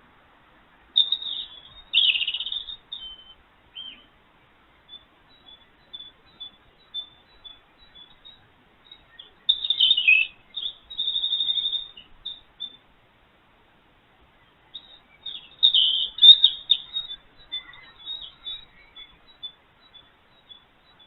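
Small birds chirping high and thin in three louder bursts, one with a quick trill, and single chirps between them.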